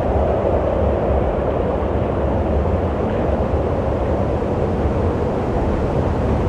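Strong wind blowing steadily, a constant rushing with a deep low rumble.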